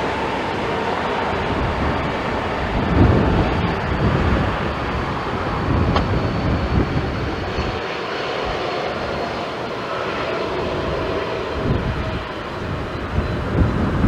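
Jet airliner engines on landing approach: a steady rushing noise with a faint whine slowly falling in pitch. Gusts of wind buffet the microphone now and then.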